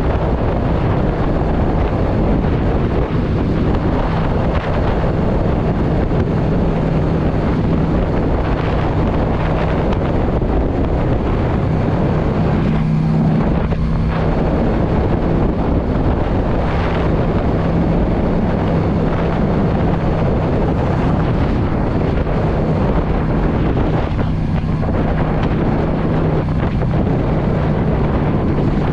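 2016 Yamaha V Star 650's V-twin engine running at road speed, heavily buffeted by wind noise on the microphone.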